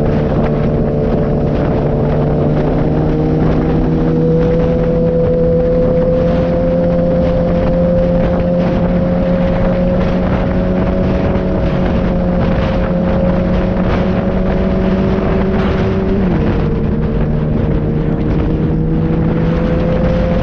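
Motorcycle engine running steadily under way, its pitch wandering slightly with the throttle. About sixteen seconds in the pitch drops suddenly, then climbs again.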